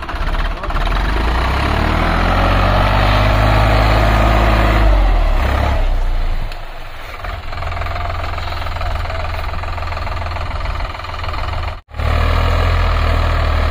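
Solis tractor's diesel engine running hard, its speed changing over the first few seconds, then easing off for a moment around six seconds in. The sound cuts out for an instant near the end and comes straight back.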